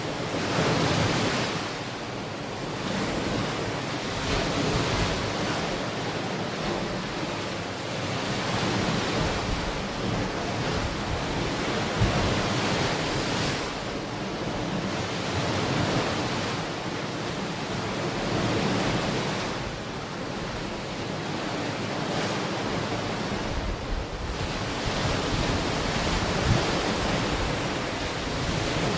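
Ocean waves breaking and washing onto a beach, the surf swelling and easing every few seconds, with some wind buffeting the microphone.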